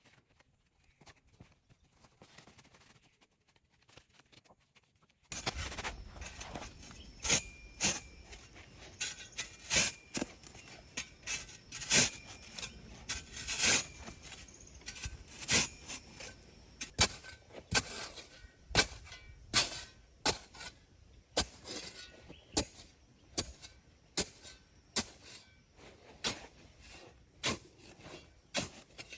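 A hand tool striking over and over, about one sharp hit a second, some hits with a faint ring. The hits start suddenly about five seconds in, after a faint hiss.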